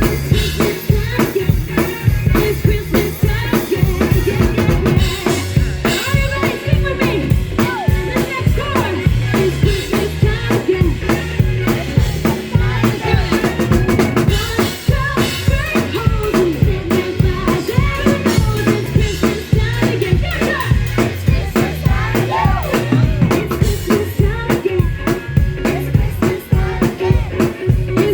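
Live band music driven by a drum kit, with a steady beat of bass drum and snare under pitched instruments.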